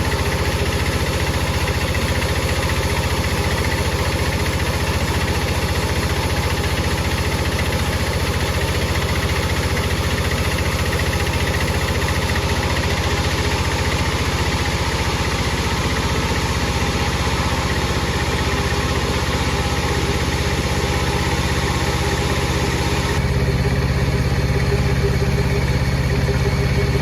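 Power saw machinery running steadily with a continuous engine-like drone and hiss. About 23 seconds in the sound shifts: the low hum gets louder and the high hiss drops.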